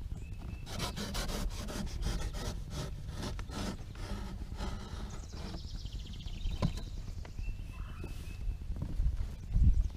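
Scooter packaging being opened and handled: a rapid run of rattling and tearing clicks in the first few seconds, then scattered clicks and rustles, over a steady low rumble.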